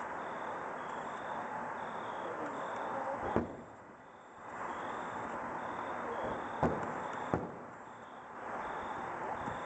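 Fireworks going off: three sharp bangs, about a third of the way in and two close together past the middle, over a steady rushing crackle that drops away twice.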